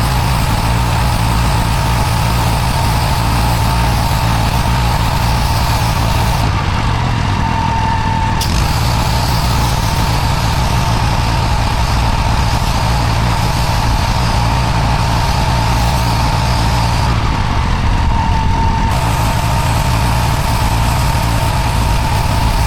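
Petrol pressure washer engine running steadily under load while the high-pressure jet hisses on the paving. The high hiss of the spray drops away twice, for about two seconds each time.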